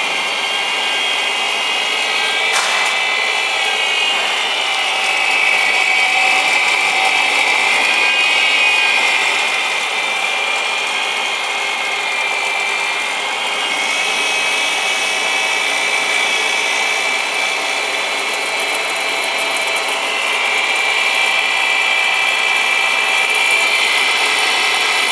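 Sesame colloid mill running steadily, its motor and grinding rotor giving a continuous high whine over a rough grinding noise, the pitch wavering slightly.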